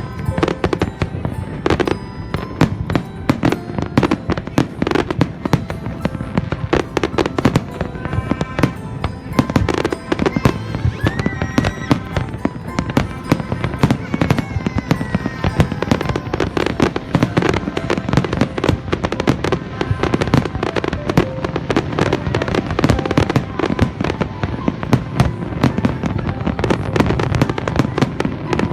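A dense, unbroken barrage of New Year's fireworks and firecrackers, with many sharp bangs and pops every second, over music.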